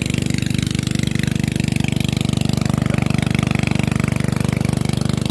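A small engine running steadily close by, with a rapid even pulse.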